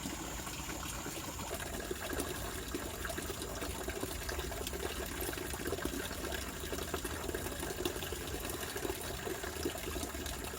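River water flowing steadily past: a continuous trickling rush with no breaks.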